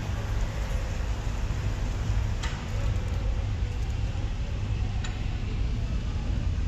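Steady low engine rumble heard from inside a car's cabin on a vehicle ferry, with two short sharp clicks, one about two and a half seconds in and one about five seconds in.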